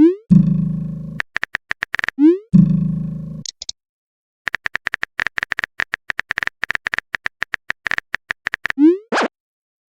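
Phone-chat sound effects: runs of quick typing clicks, broken by short rising pops of messages being sent and two low buzzing tones that fade over about a second each, near the start and about two and a half seconds in.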